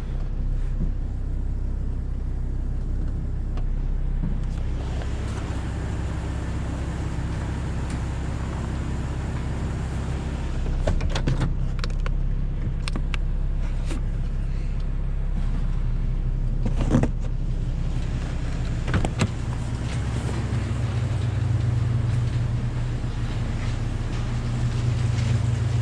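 A motor vehicle's engine running steadily at low speed, with a handful of sharp clicks and knocks about halfway through.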